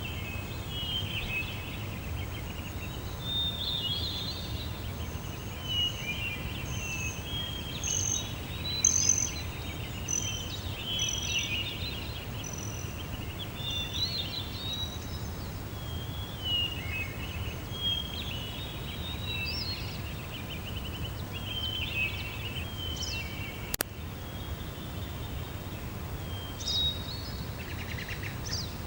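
Several wild birds singing and calling, with overlapping chirps and warbles and a run of short repeated high notes, over a steady low rumble. A single sharp click comes about three-quarters of the way through.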